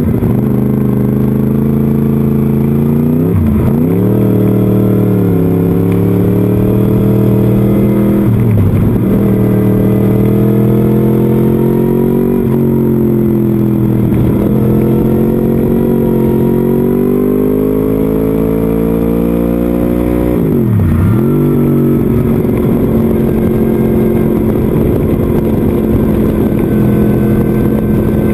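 Motorcycle engine heard from onboard at track speed, with wind rush on the microphone. The revs climb steadily in long pulls and dip sharply and recover three times: about three seconds in, about nine seconds in, and about twenty-one seconds in.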